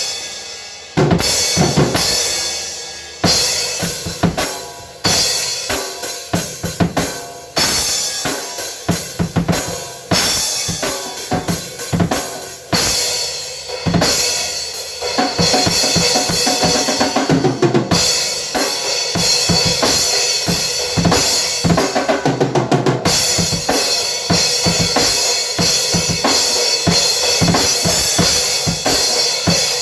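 A drum kit being played: kick, snare and cymbal hits, scattered with short gaps at first, then a busier, continuous pattern from about a third of the way in.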